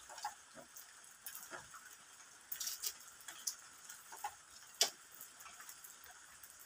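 Faint crunching and chewing of raw bitter gourd, with scattered small mouth clicks, a short crackly stretch about two and a half seconds in and a sharper click near five seconds.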